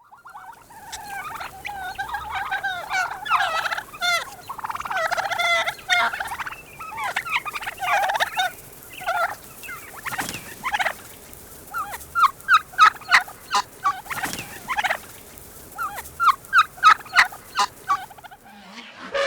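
Domestic fowl calling: a dense run of warbling calls, then several bursts of quick repeated notes in the second half.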